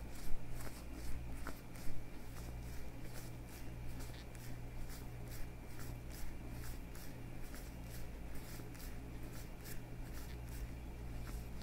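Leather gloves on hands being rubbed and flexed, giving an irregular run of soft crackles and ticks, several a second, with two louder ones near the start. A low steady hum runs underneath.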